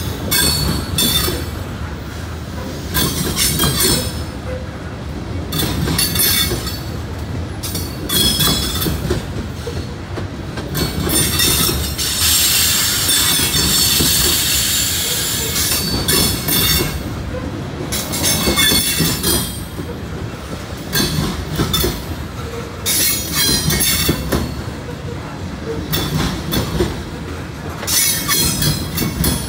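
Norfolk Southern grain train's covered hopper cars rolling past close by, a steady rumble with steel wheels clacking over rail joints and squealing in repeated short bursts. A longer high squeal comes about twelve seconds in and lasts some four seconds.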